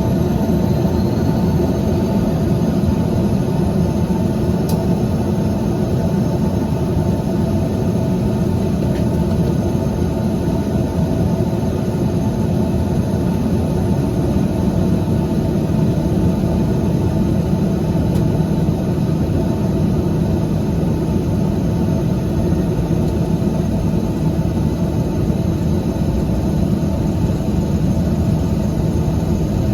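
Two Pratt & Whitney Canada PT6A turboprop engines and propellers of a de Havilland Canada DHC-6-300 Twin Otter running steadily, heard inside the cabin. The sound is a loud, even drone made up of several constant tones, with no change in pitch or power.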